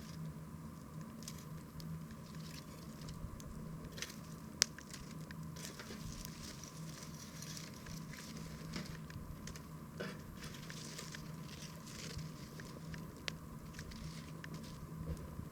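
Wood campfire crackling, with scattered small pops and one sharp, louder pop about four and a half seconds in.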